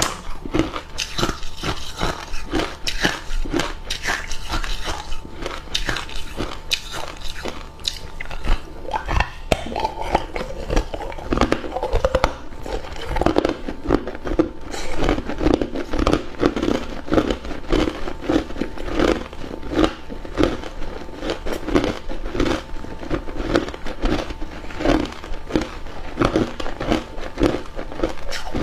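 Hard cube ice being bitten and chewed close to the microphone: dense crunching and cracking. In the second half it settles into a steady chewing rhythm.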